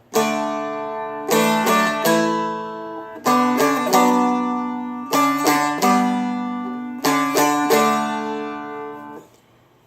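Seagull Merlin M4 strummed in four chord groups, D, A, B minor and G. Each group is a full strum followed by two or three quick single notes, and each chord is left to ring and fade.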